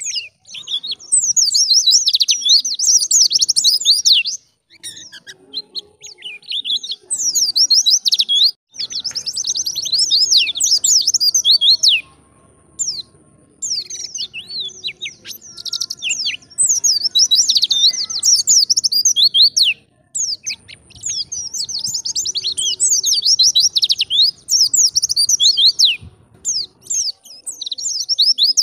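White-eye (pleci) singing long, rapid, high twittering song phrases, in bursts of several seconds with short pauses between.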